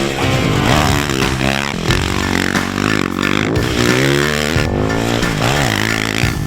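Dirt bike engines revving up and down repeatedly, more than one at a time, their pitch rising and falling with each blip of the throttle.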